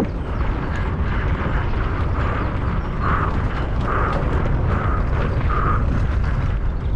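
Mountain bike ridden fast downhill, with a steady rumble of wind on the microphone and the bike rattling over the trail. A short mid-pitched puff repeats a little more often than once a second in the second half.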